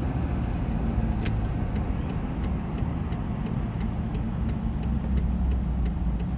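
A vehicle driving along a road: a steady low rumble of engine and tyres, with faint light ticks about three times a second from a little after a second in.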